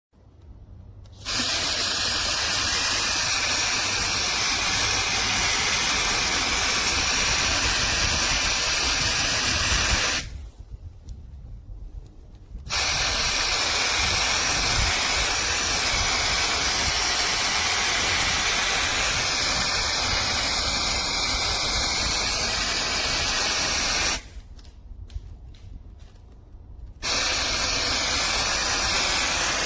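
Garden hose-end sprayer spraying water in a steady hiss, with a low rumble underneath. The spray stops twice for a couple of seconds, about a third of the way in and again near the end, then starts again each time.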